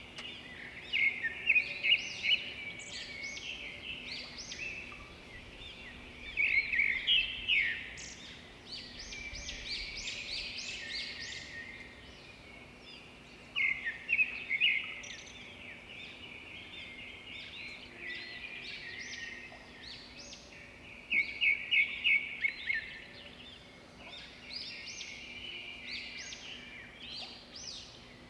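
Birds singing: loud bursts of quick repeated notes come about every six or seven seconds, with softer chirping and trills between them.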